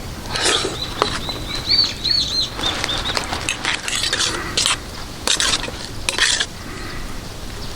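Camp cookware or utensils clinking and scraping in irregular knocks, with a quick run of high, wavy chirping squeaks about half a second to three seconds in.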